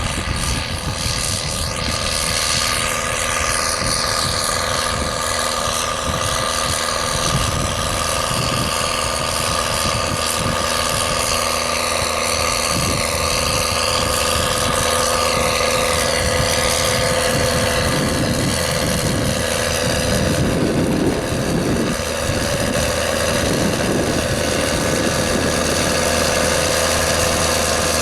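Case IH Puma 180 tractor's six-cylinder diesel engine running steadily under load, pulling a five-furrow reversible mouldboard plough.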